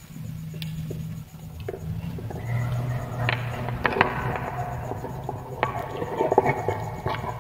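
Wood fire crackling, with scattered sharp pops and snaps that grow denser a few seconds in, over a low steady rumble.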